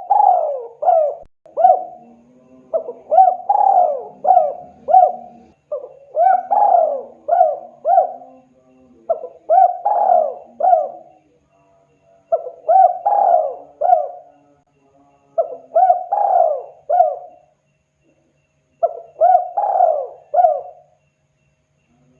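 Spotted dove (tekukur) cooing: seven phrases of several quick coos each, repeated about every three seconds.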